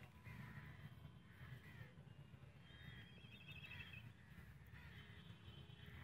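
Faint birds calling in the background, with repeated short calls and a wavering trill about three seconds in, over a low steady background rumble.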